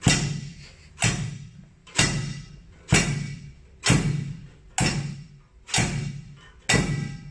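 Improvised household drums, a tape-wrapped drum rim and a bucket standing in for taiko, struck with sticks together in a slow, steady beat of about one stroke a second. Each stroke rings briefly and dies away.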